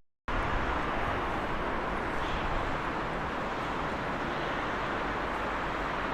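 Steady rushing noise of passing vehicles, after a split second of silence at the start.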